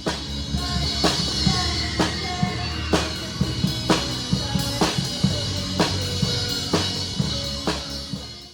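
Rock music with a drum kit playing a steady beat, a sharp snare-like hit about once a second over a bass line and short melody notes.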